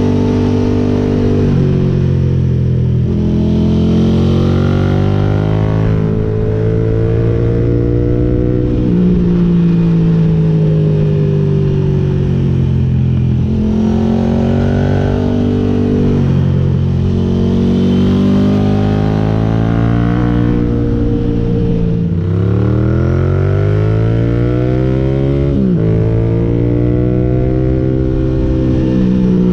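Ducati GT1000's air-cooled L-twin engine through Termignoni exhaust pipes, pulling the bike along. The engine note rises and falls over and over, dropping suddenly at each gear change. There is one long, strong climb in revs near the end.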